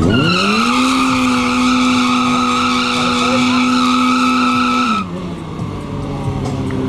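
Sport motorcycle engine revved up quickly and held at high, steady revs for about five seconds, then let back down to a lower running sound.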